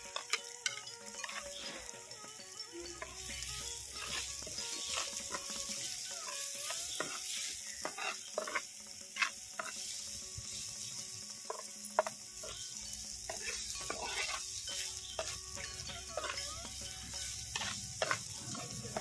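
Diced potatoes, onion and tomato frying in oil in a clay pot, with a steady sizzle. A metal spoon stirs and scrapes against the pot, making irregular clicks and knocks.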